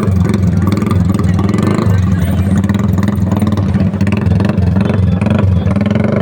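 Motorcycle engines running steadily at low revs, as in a slow race.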